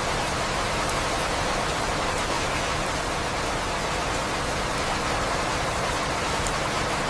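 Recorded rain falling steadily, an even, unbroken hiss.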